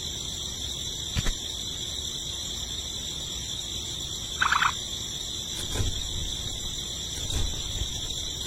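A short rattling bird call about four and a half seconds in, over a steady high-pitched whine, with a few faint knocks.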